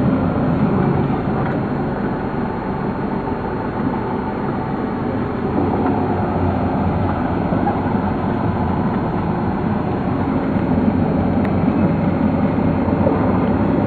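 Steady, unbroken rumble of vehicle engine and road noise, with no distinct events.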